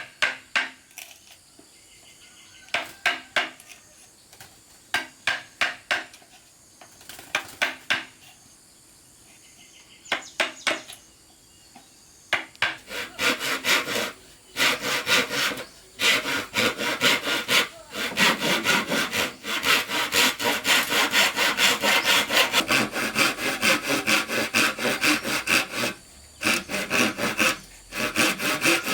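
Hand saw cutting bamboo: a few short runs of strokes at first, then steady back-and-forth sawing from about halfway, with a brief pause near the end.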